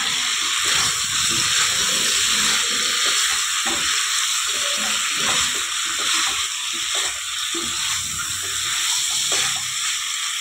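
Marinated chicken pieces frying in hot ghee and butter in a kadhai on high flame, with a steady sizzle. Now and then a silicone spatula scrapes and knocks as it turns the pieces.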